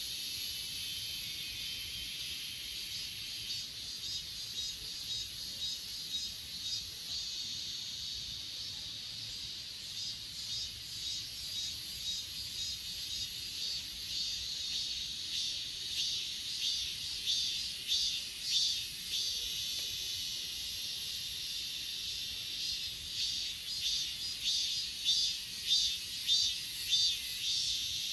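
Chorus of grass insects, crickets among them, chirping steadily in a high pitch, with rapid pulsed chirps standing out more in the second half.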